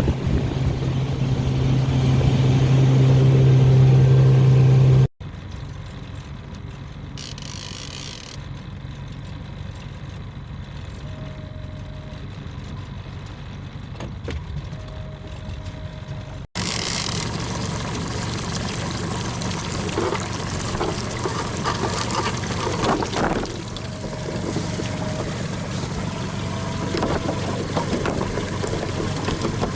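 A boat's outboard motor running, in three cuts: first a loud steady engine hum, then a quieter stretch, then the engine again with water noise. A few short high beeps sound now and then.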